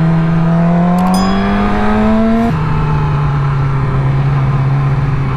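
Yamaha R6's inline-four engine on its stock exhaust, accelerating with rising pitch. About two and a half seconds in the pitch drops sharply as it shifts up a gear, then it pulls on steadily.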